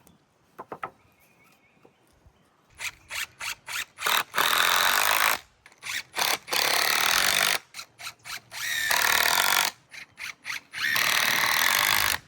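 Power drill driving screws into 2x4 lumber: a few short trigger blips, then four runs of about a second each with short pauses between.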